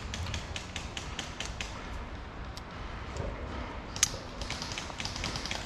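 Airsoft guns firing in rapid runs of sharp clicks, with one louder crack about four seconds in and a denser burst of shots near the end.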